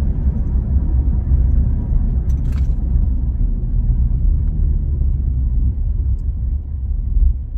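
2024 Nissan Frontier's 3.8-litre V6 running through a straight-pipe exhaust (muffler removed), a steady low rumble while cruising along at road speed, heard from inside the cab.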